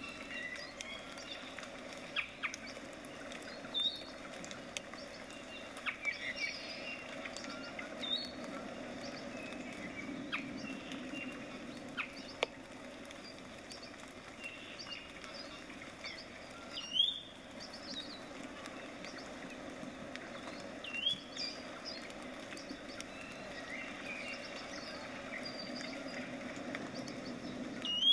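Birds calling, led by a short rising chirp repeated every four seconds or so, over a steady low hum. Faint soft ticks and scratches of a small paintbrush dabbing on canvas run underneath.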